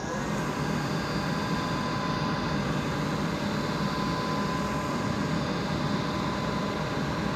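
Amana 80 gas furnace's fan motor running steadily at full speed just after spinning up, with a steady hum and a thin whine. It keeps running because the faulty sensor under the fan has been bypassed.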